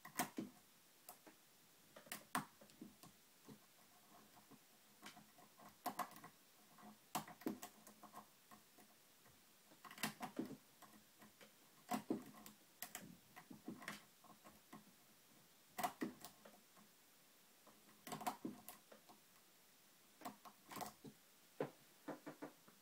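Single-pin picking of a TrioVing oval pin-tumbler cylinder: small metallic clicks and scratches of the pick and tension wrench working the pins, coming in irregular clusters.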